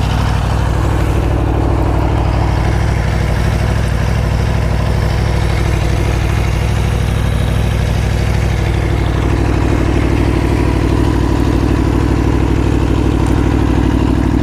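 Aprilia Tuono V4 1100's V4 engine idling steadily.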